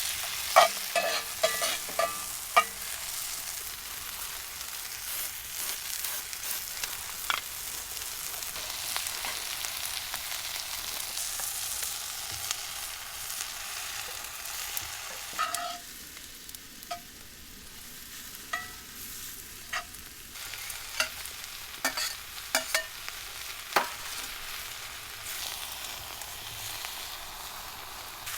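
Food sizzling in a hot pan as it is stirred, with sharp clicks and taps of a utensil against the pan: a cluster of them in the first few seconds and more scattered through the second half.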